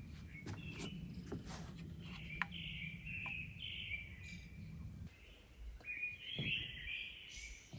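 Birds chirping over a low steady rumble; the rumble stops about five seconds in.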